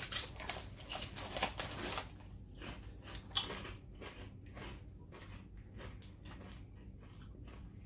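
Potato chips being bitten and chewed: an irregular run of crisp crunches, louder now and then.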